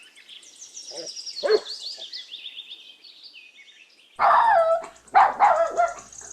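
A dog barking in a series of high-pitched yaps, starting about four seconds in. Before that, faint rapid high chirping.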